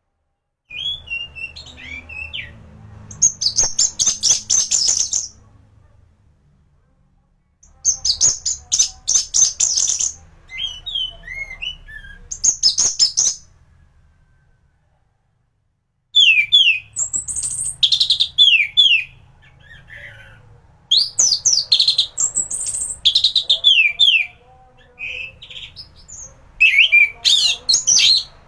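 Orange-headed thrush (anis merah) singing fast, varied whistled phrases in three bouts, with two short pauses about 6 and 14 seconds in. A faint low hum runs under the song.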